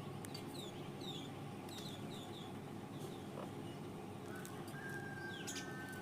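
Faint small-bird chirping: a series of short, quick downward-sliding notes, over a steady low background hum. About four and a half seconds in, a long steady tone starts and holds.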